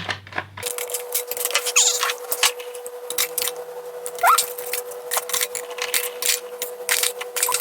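Plastic clicks, knocks and rattles of a toy sewing machine's battery compartment being worked open and handled, with a steady faint hum underneath.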